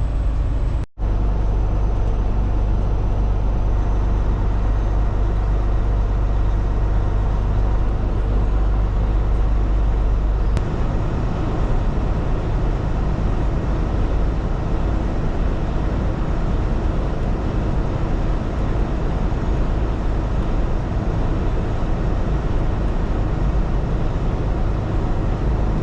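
Steady road and engine noise inside a semi-truck cab while driving: a deep rumble under a hiss of tyres and wind. The deep rumble lessens about ten seconds in, and the sound cuts out for an instant about a second in.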